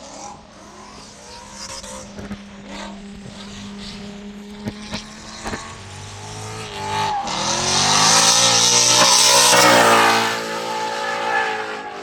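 A drift car's engine climbs in pitch as it accelerates, loudest about two-thirds of the way in, with tyres screeching as the car slides, then dies back. Before that there is a steady low hum with a few sharp clicks.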